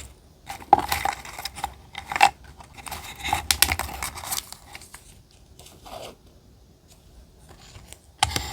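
Paper collage materials being handled while decorating a journal: a run of crisp rustles, snips and small clicks over the first few seconds, a quieter lull, then more rustling near the end.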